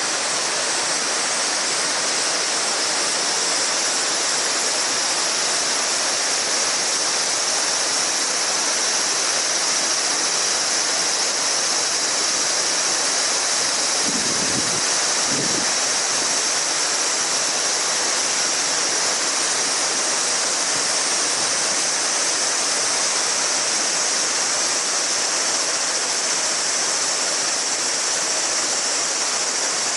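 Shallow river babbling steadily, with a summer cicada chorus as a steady high hiss on top of it. A brief low rumble about halfway through.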